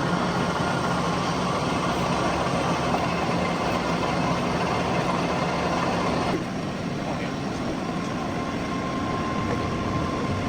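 Metal lathe running with a steady machine hum and noise, which drops to a lower level about six seconds in.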